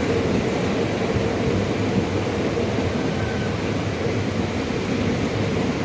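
Steady rumble of a passenger train heard from on board, with a faint steady hum running through it.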